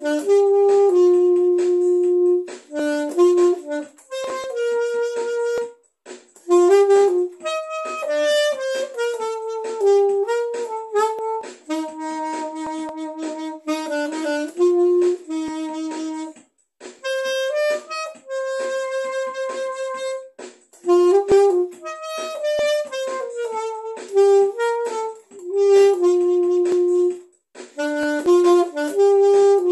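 Solo saxophone playing a slow melody on its own, with no accompaniment. It plays phrases of held and gliding notes, with short pauses between phrases.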